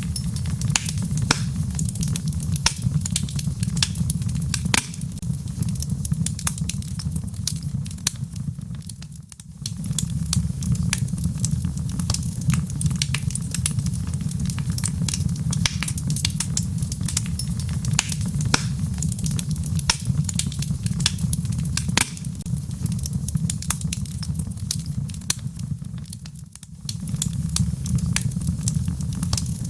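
Log fire burning in a fireplace: a steady low rumble of flames with frequent sharp crackles and pops from the wood. The rumble dips briefly twice.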